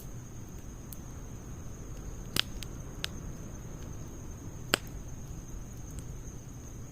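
Wood fire in a fire pit burning quietly, with a few sharp crackles; two loud pops about two and a half and four and a half seconds in.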